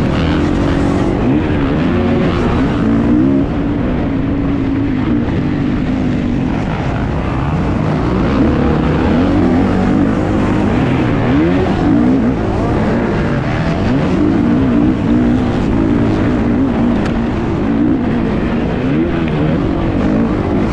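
Kawasaki KX450's 450 cc four-stroke single-cylinder engine racing on a motocross track, its revs rising and falling again and again as the throttle is opened and shut through the gears, under a steady rush of noise.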